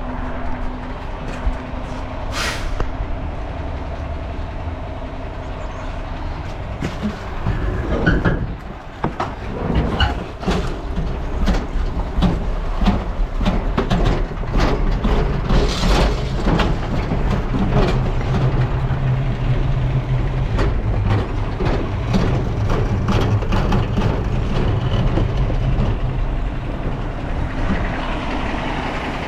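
Garbage truck running steadily, with a short air hiss about two seconds in. From about eight seconds in, a long run of clanks and knocks as debris and metal bang together during the dumpster pickup, and the engine rises under load for several seconds past the middle.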